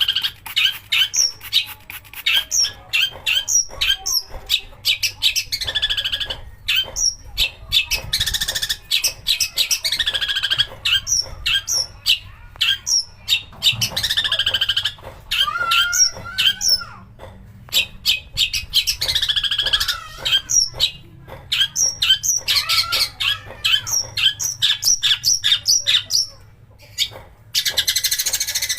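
Long-tailed shrike (cendet) singing a fast, varied song of rapid chirps, whistled notes and harsh rasping bursts, with a couple of short pauses.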